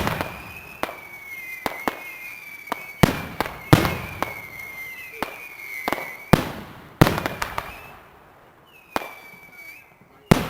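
Fireworks display: a run of sharp aerial firework bangs at irregular intervals, about a second or two apart, several followed by a rolling rumble. A thin high whistle wavers underneath, and the bangs thin out near the end before one last bang.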